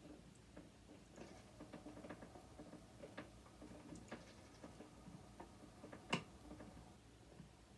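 Faint, irregular small clicks and scrapes of a screwdriver working a screw out of a sewing machine's metal body, with one sharper click about six seconds in.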